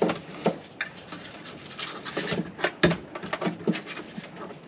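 Handling noise as parts are worked loose by hand: rubbing and scraping with scattered knocks, the sharpest about three seconds in.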